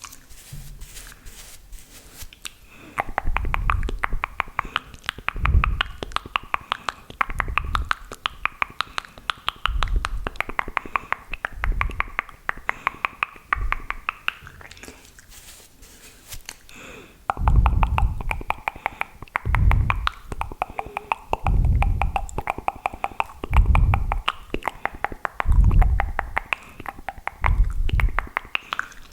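Close-miked wet mouth sounds of ASMR spit painting: rapid saliva clicks and lip smacks, with a low thud about every two seconds. The sounds ease off briefly a little past halfway.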